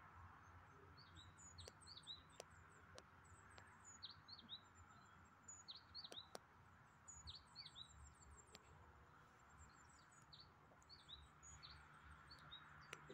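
Small birds calling faintly: many short, quick chirps in clusters, some very high and thin, over a faint steady background hush.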